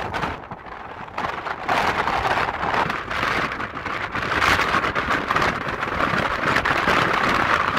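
Strong wind buffeting the microphone: a rushing noise that eases briefly about half a second in, then gusts up again.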